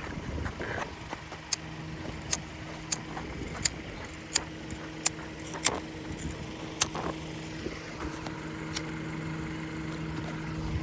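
Steady low hum of an idling car engine, with a string of sharp, short high clicks about one every second for most of the stretch.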